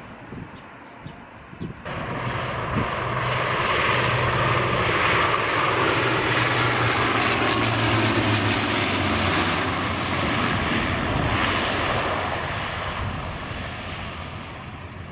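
Jet airliner passing low overhead. The engine noise comes in sharply about two seconds in, swells to a loud peak with a high whine that glides down in pitch as the plane goes over, then slowly fades.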